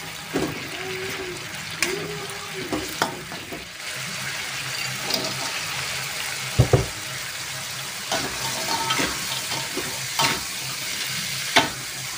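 Tempeh and chillies sizzling in hot oil in a large wok, stirred with a metal spatula that scrapes and knocks against the pan. The loudest sounds are two sharp knocks just past the middle and another near the end.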